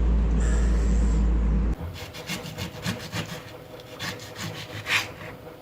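A loud low rumble cuts off abruptly under two seconds in. It is followed by a run of short, quieter scraping or rubbing strokes, several a second, with one louder stroke near the end.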